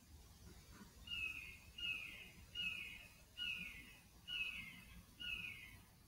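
A bird calling over and over: a series of clear downward-slurred notes, about one every second, starting about a second in.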